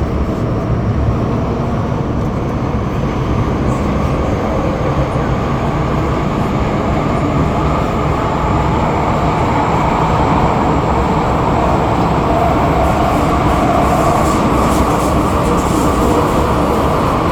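MTR Island Line metro train running through its tunnel, heard from inside the carriage: a steady rumble of wheels on rail that grows slightly louder about halfway through.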